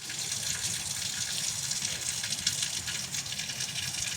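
Water running or pouring steadily: an even, unbroken hiss.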